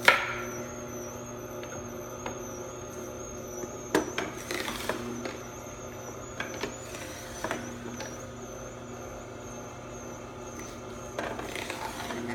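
Knife cutting an apple into pieces on a cutting board: a few sharp knocks, the loudest right at the start and another about four seconds in, over a steady hum.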